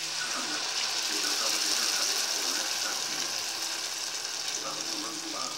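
Chopped onion frying in melted butter in a saucepan, giving a steady sizzle as ready-made tomato sauce is poured in from a pouch.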